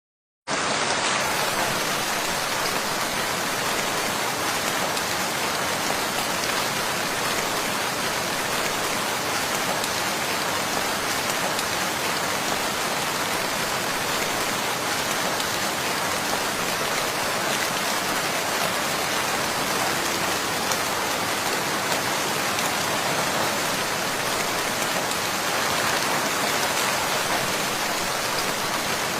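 Heavy rain pouring down in a steady, even hiss that begins about half a second in and keeps up without change.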